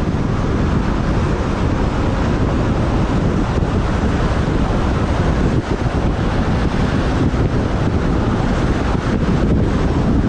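Wind buffeting the microphone of a camera riding on a moving motorbike: a steady, loud low rush, with road and traffic noise underneath.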